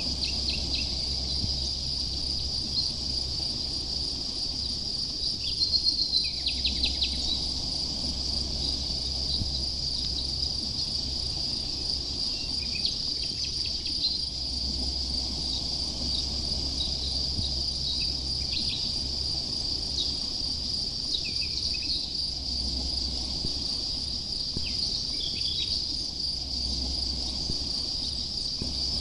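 Steady high-pitched chirring of crickets, with short bird calls breaking in now and then, loudest as a quick run of notes about six seconds in, over a low steady rumble.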